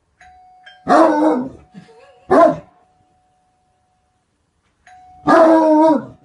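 Great Dane barking: three loud barks, a long one about a second in, a short one about a second later, and another long one near the end.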